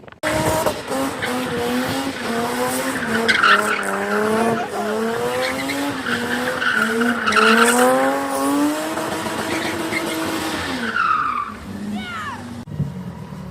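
Car engine revving hard, its pitch climbing and dropping again and again, with tyres squealing as in drifting or a burnout; it dies away near the end.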